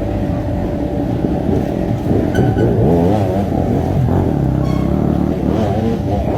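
Dirt bike engines running and revving, their pitch wavering up and down from about halfway in.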